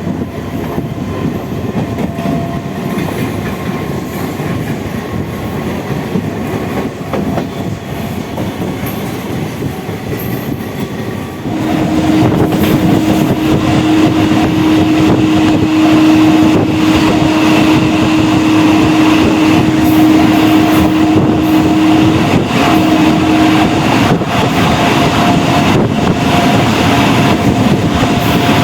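A MEMU electric multiple-unit train running at speed, with steady rumble and clickety-clack of the wheels on the rails. About eleven seconds in the noise gets suddenly louder, and a steady low hum sounds for about twelve seconds.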